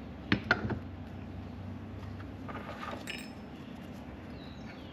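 Two quick metallic clinks, then quieter handling of small metal parts, as the alternator pulley is set back on its shaft.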